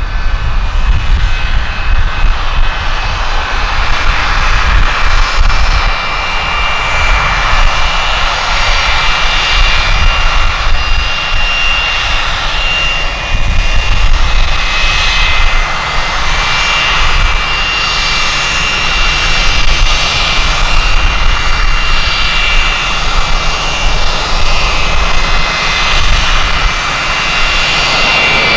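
Jet airliner's turbofan engines running loud and continuous, with a steady high whine over a broad rush of noise and a low, fluctuating rumble from the gusty wind.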